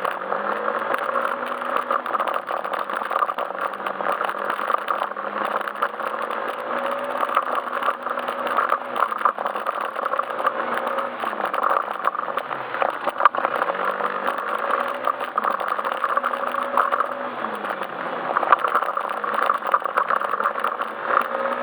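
Yamaha Majesty S scooter's single-cylinder engine running as it rides along, its note stepping up and back down every few seconds as the throttle opens and closes, with steady rattling and road noise over it.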